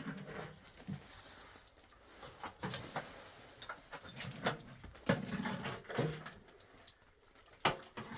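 Irregular knocks, clicks and dull thuds at an uneven pace, some sharper and louder than others, as of things being handled and set down in a small room.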